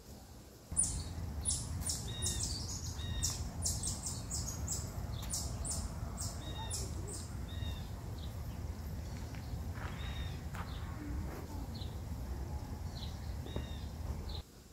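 Birds chirping in many quick, short calls, thickest in the first half, over a steady low rumble. The sound starts abruptly about a second in and cuts off just before the end.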